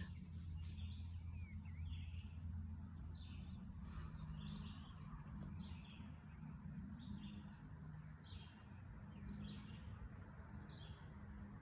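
A bird calling with a series of short, high chirps, roughly one a second, over a faint steady low hum.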